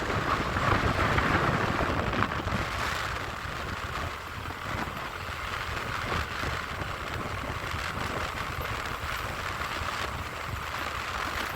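A vehicle on the move with wind rushing over the microphone: a steady low rumble under a constant noisy hiss, a little louder in the first couple of seconds.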